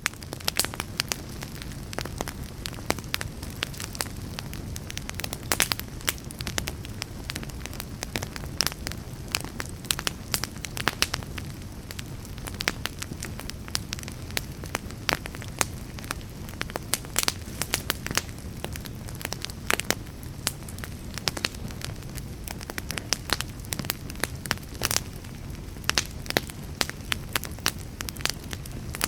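Wood fire burning, with frequent irregular sharp crackles and pops of the wood over a low steady rumble of the flames.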